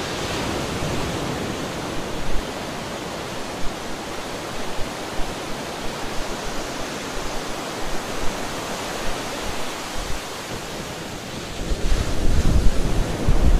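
Small waves washing on a sandy beach, heard as a steady rush, with wind rumbling on the microphone that grows stronger about twelve seconds in.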